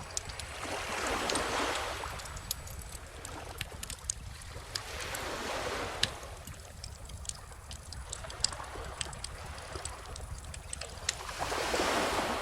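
Calm ocean waves wash in three times as a soft rising and falling hiss, with a wood bonfire crackling and snapping in sharp pops throughout. Two louder pops stand out, about six and eight and a half seconds in.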